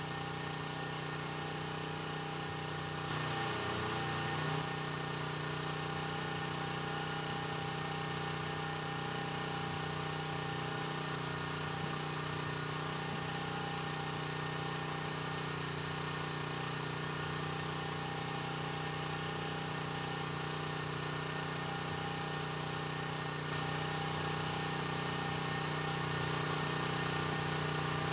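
A small engine running steadily at a constant speed, with an even hum. There is a brief change in its sound about three seconds in, and it grows slightly louder near the end.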